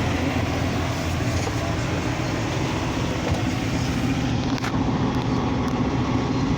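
Steady idling vehicle engine drone: a constant low hum under an even hiss.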